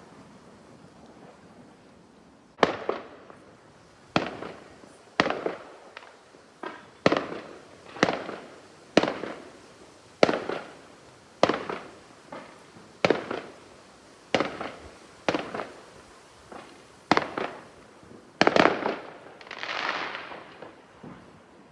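Fireworks bursting overhead in a string of sharp bangs, roughly one a second after a quiet couple of seconds, each bang trailing off in echo. A longer crackling hiss comes near the end.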